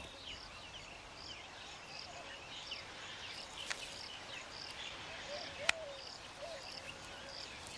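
Faint natural ambience of weaver birds chirping and twittering. Behind it an insect chirps steadily, about one and a half pulses a second, and there are a couple of sharp clicks.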